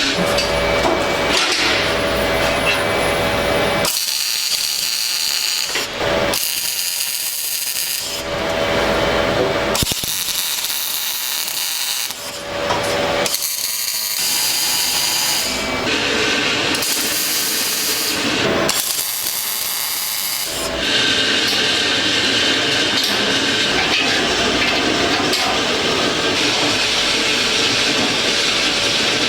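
Power tool work on metal in a welding shop, in short segments that change abruptly: stretches of a motor's steady whine alternate with stretches of high hiss every second or two, then a steadier din of shop noise from about 21 seconds on.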